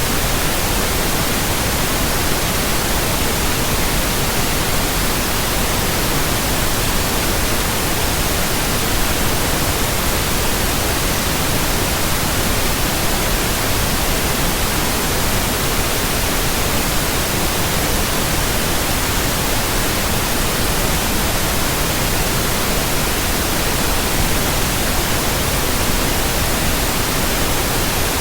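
Steady synthetic white noise: an even, unchanging hiss across the whole frequency range, with no rhythm, tones or events.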